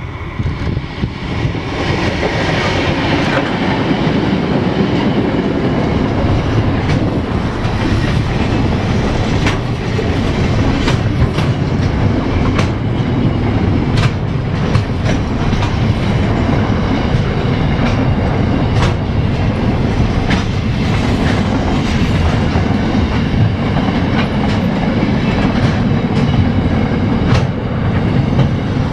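A train rolling past close by: a steady, loud rumble of wheels on rail with scattered sharp clicks over the rail joints. It builds over the first couple of seconds and then holds.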